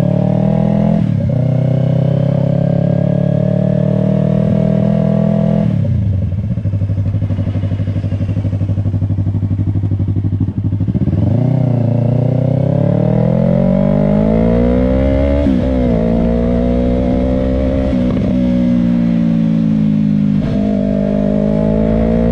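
2020 Yamaha R3's parallel-twin engine running through an aftermarket M4 Street Slayer exhaust. The revs are held up for several seconds, drop back to a low idle for about five seconds, then climb gradually and waver up and down.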